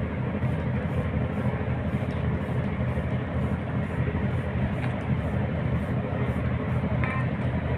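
Wooden fishing boat's engine running steadily with a low, even rhythmic beat.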